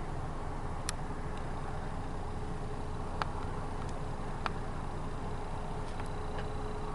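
Steady low rumble of distant engine noise with a faint steady hum, broken by a few small clicks.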